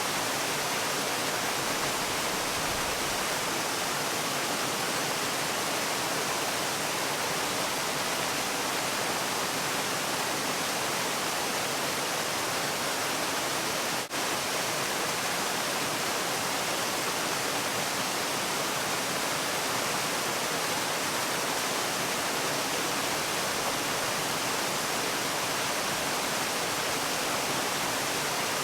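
Waterfall: a steady, even rush of falling water, with one momentary dip in level about halfway through.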